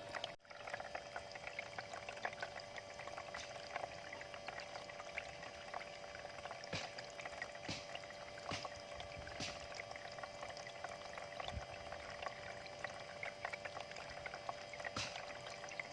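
Water pouring from a homemade bamboo fountain's spout into its basin: a steady splashing trickle with scattered sharper drips.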